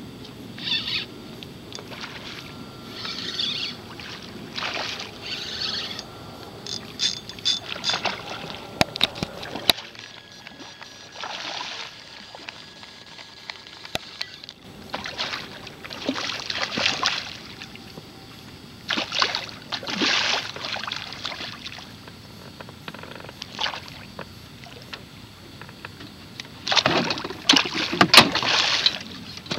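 Water splashing and swishing around a small skiff in irregular bursts, with sharp knocks and clicks on the boat.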